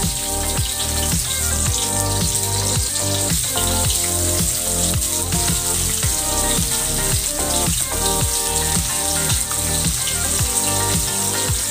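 Hot cooking oil sizzling steadily in a wok as garlic, onion and whole round scad fry. Background music with a steady beat plays along.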